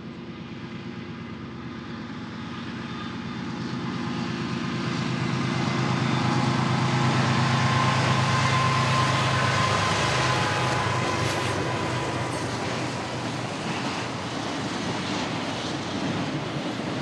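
Diesel locomotives of a double-stack freight train approach and pass, their engine hum growing louder to a peak about eight seconds in. The rumble and clatter of the cars' wheels on the rails follow.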